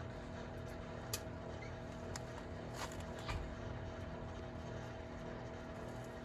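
Microwave oven running with a steady hum while the circuit boards inside it arc, giving a few sharp snaps in the first half.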